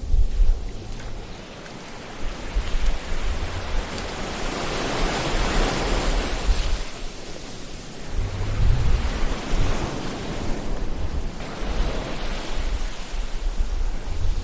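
Ocean waves breaking and washing on a shore, the surf swelling and ebbing every few seconds with a low rumble.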